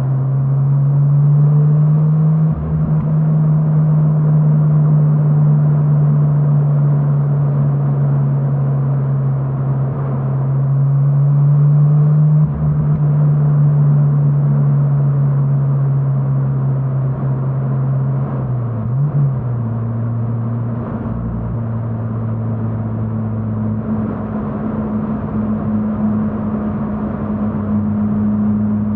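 Mazda RX-8's Renesis 13B two-rotor rotary engine, breathing through an Autoexe stainless dual muffler, running at a steady cruising note. The pitch rises a little near the middle, then about two-thirds of the way in it shifts and settles into a lower, steady note.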